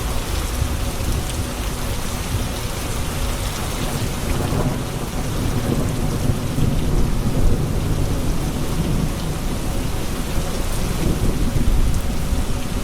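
Steady heavy rain hissing on hard surfaces, with thunder rumbling low underneath that swells about a third of the way in and rolls on for several seconds.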